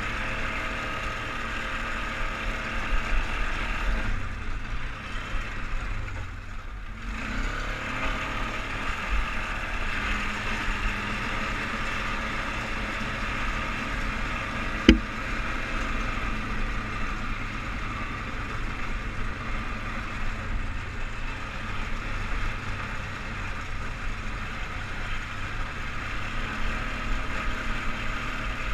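Polaris Sportsman 500 HO ATV's single-cylinder engine running under way, easing off briefly about five seconds in before picking back up. A single sharp knock sounds about halfway through.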